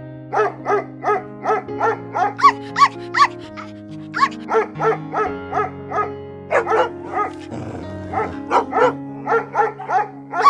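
Dog barking repeatedly in quick runs of about three barks a second, with short pauses between the runs, over light background music.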